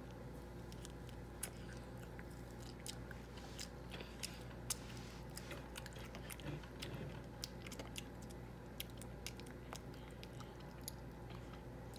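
A toddler biting and chewing an orange wedge: a scatter of short, sharp mouth clicks and smacks, thickest in the first half, over a faint steady hum.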